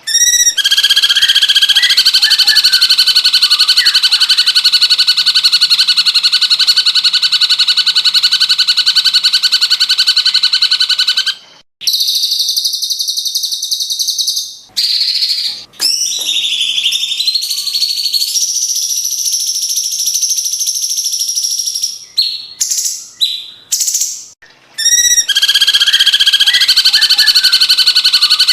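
Cucak cungkok song, very loud and clear: a long, rapid buzzing trill for the first eleven seconds or so. Then come varied shorter chirps and calls with brief gaps. A second long trill starts near the end.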